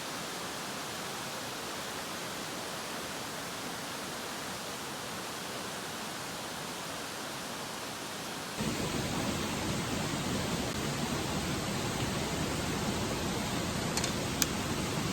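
Steady rushing noise of flowing water. A little over halfway it jumps to a louder, deeper rush, and two short clicks sound near the end.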